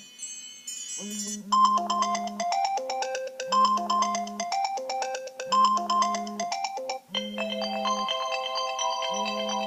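iPhone's built-in iOS 7 ringtone playing: a bright melodic loop over a low note that repeats about every two seconds. The pattern changes to a fuller, more sustained texture about seven seconds in.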